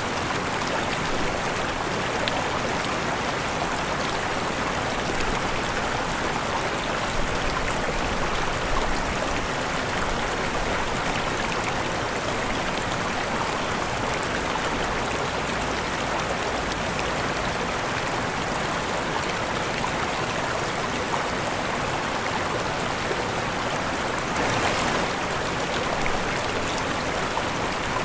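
Waterfall: a steady, even rush of falling water, swelling slightly near the end.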